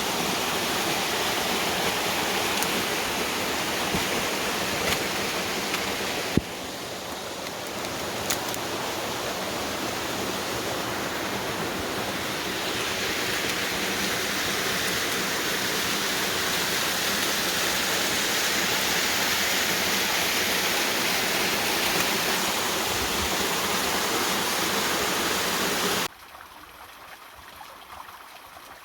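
Steady rushing of water pouring over a waterfall into a creek. It changes abruptly to a slightly quieter rush about six seconds in, and near the end it cuts sharply to a much softer flow.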